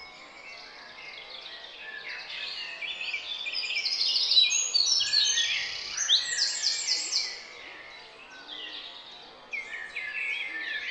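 Small garden birds chirping and singing, many quick overlapping calls and trills, busiest and loudest in the middle.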